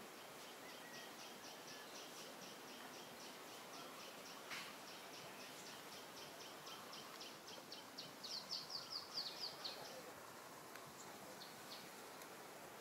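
A bird calling a long run of short, high chirps, about four a second, growing louder near the end, over faint steady outdoor background noise. A single sharp click about four and a half seconds in.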